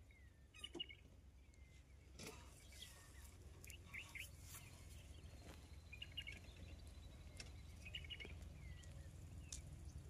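Faint birds chirping and calling here and there, some calls short downward-sliding whistles, over a low steady rumble.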